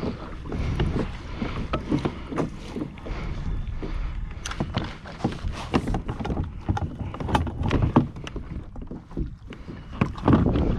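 Water lapping and slapping against the hull of a kayak at sea, with irregular knocks and slaps.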